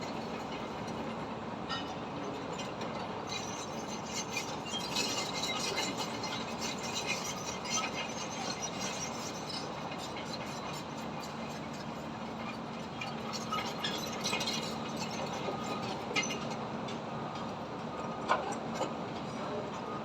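Construction site ambience: a steady machine hum under a wash of traffic noise, with scattered metallic clinks and clanks, the sharpest about eighteen seconds in.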